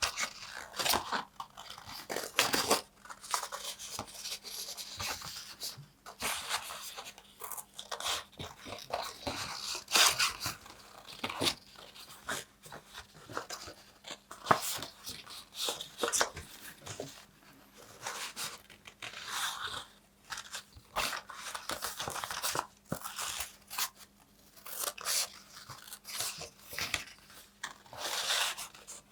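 Paper tearing and crunching in irregular bursts of crackles, with short pauses between them.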